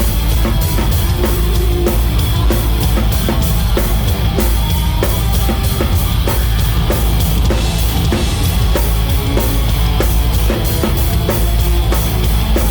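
Live hard rock band playing loud and steady, with a drum kit driving a fast beat under distorted electric guitars and bass.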